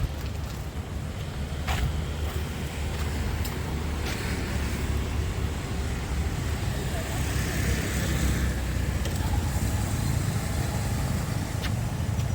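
Street traffic: a steady low rumble of passing vehicles, with voices in the background.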